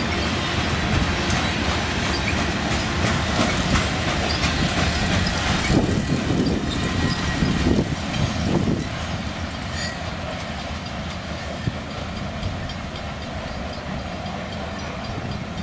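Freight grain train's covered hopper cars rolling past, a steady rumble of steel wheels on rail with clickety-clack over the rail joints. After the last car goes by, about halfway through, the sound eases as the train moves away.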